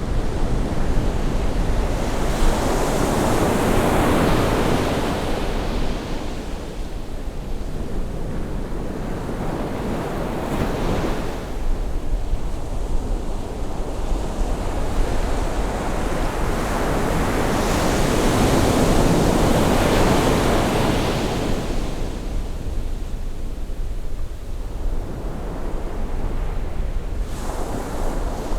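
Ocean waves breaking and washing up the shore on a rising tide, the surf noise swelling and fading about every seven or eight seconds over a steady low rumble.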